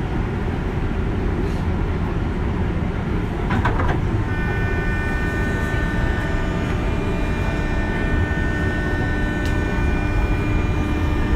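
JR West 201 series electric train running, heard from inside the car: a steady low rumble of wheels on rail. From about four seconds in it is joined by a set of steady, constant-pitch whining tones, typical of the 201 series' thyristor chopper control.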